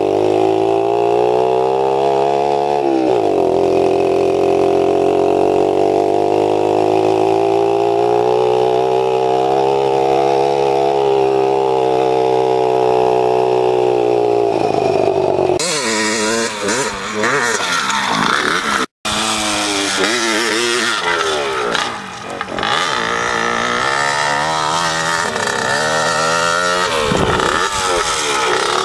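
Small pit bike engines running under the riders: a steady engine note that drops in pitch about three seconds in and holds until about halfway through. The sound then changes abruptly to engines revving up and down, broken by a momentary dropout.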